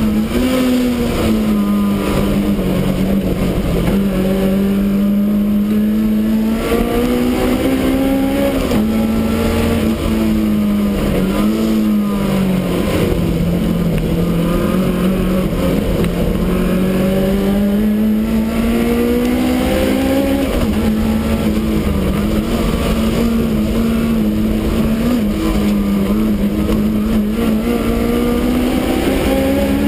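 Supercharged BMW E30 race car's engine heard from inside the stripped cabin, running hard under load. Its pitch repeatedly climbs and then drops back as the driver shifts gear and lifts for corners.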